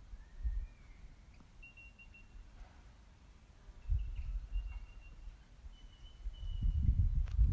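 Birds calling in the bush: several short, thin, steady whistled notes, over a low rumble that comes and goes and is loudest near the end.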